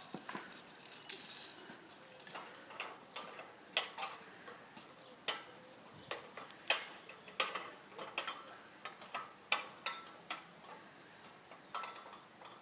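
Faint, irregular sharp clicks and knocks, roughly one or two a second, with no engine running.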